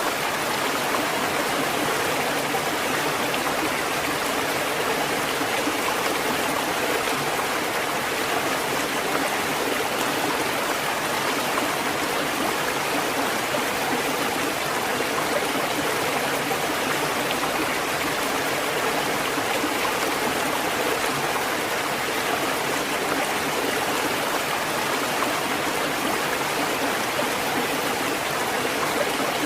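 Steady rushing of running water, an even, unbroken wash without the rise and fall of separate waves.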